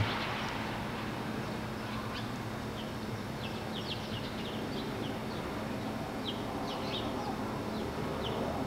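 Small birds chirping, many short high calls scattered throughout, over a steady background hum.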